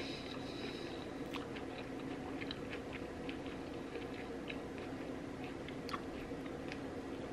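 Close-miked chewing of food, with many small moist clicks and crackles scattered throughout, over a steady low hum.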